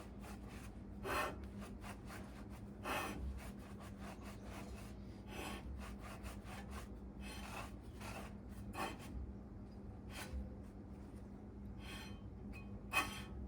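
Hand rubbing and scraping on brake parts, in irregular short strokes a second or two apart with an occasional sharper clink.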